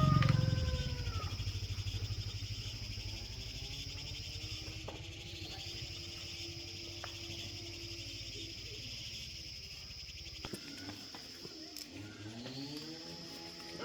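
Insects chirring steadily in a high, even band, under a low rumble that fades and stops about ten seconds in.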